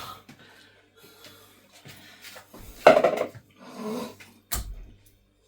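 Kitchen containers and dishes being handled, with two short clattering sounds about a second apart and a sharp click near the end.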